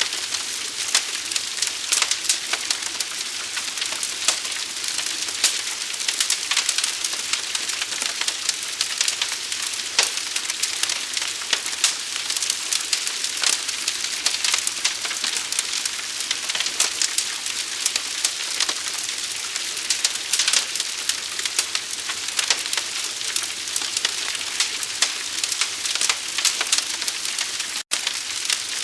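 Burning wood fire crackling and hissing, a dense, steady stream of fast irregular crackles and pops, with one momentary dropout near the end.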